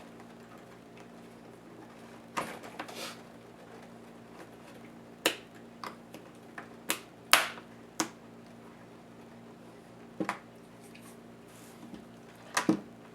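Sharp clicks and taps of plastic and small metal parts of a Lenovo IdeaPad S10-3T netbook being pried and handled during disassembly, about a dozen irregularly spaced, the loudest a little past the middle and near the end. A faint steady hum runs underneath.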